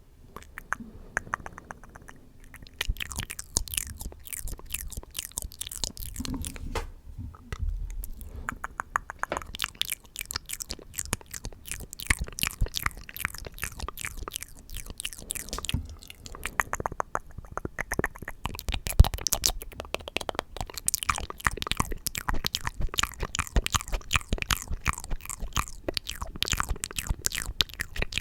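ASMR mouth sounds close to the microphone: rapid wet clicks and smacks in quick runs, with a few short pauses.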